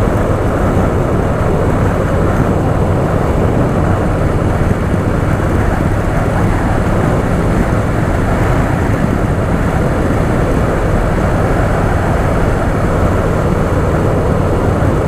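Harley-Davidson Softail Fat Boy's V-twin engine running steadily on the move, a constant low hum under a steady rush of noise.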